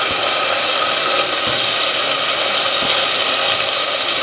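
Paneer cubes frying in melted butter in a stainless steel pot: a steady sizzle.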